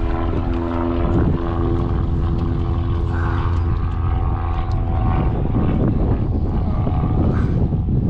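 A motor drones steadily at one even pitch for about five seconds, then fades, over a constant low wind rumble on the microphone.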